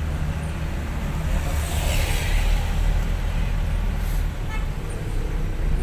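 Bus engine running steadily on the road, with a rushing swell of road and wind noise about two seconds in and a faint short tone, like a distant horn, after about four and a half seconds.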